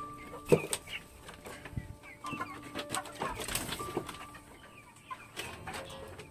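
Chickens clucking in short, irregular calls, with some knocks, over held notes of soft background music.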